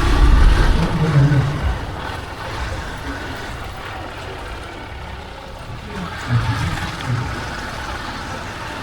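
A motor vehicle's engine running close by, a low rumble that is loudest for the first couple of seconds and then fades into steady street noise.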